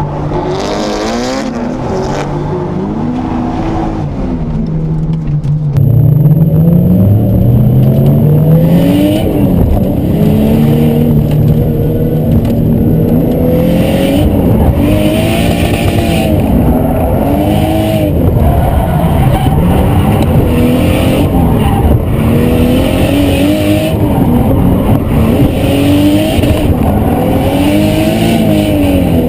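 Drift car engines heard from inside the cabin, revving up and down over and over as the throttle is worked through a drift, the pitch rising and falling every second or two. About six seconds in the sound cuts from a quieter Nissan S13 onboard to a louder Nissan R32 Skyline onboard.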